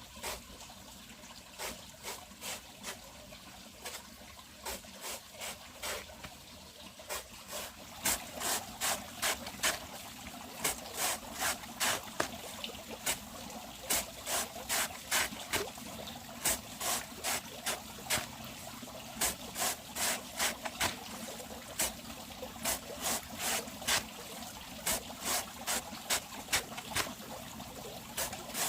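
Sharp knocks or taps repeated over and over: a few at first, then from about eight seconds in a fast, uneven run of about two a second. Water trickles steadily underneath.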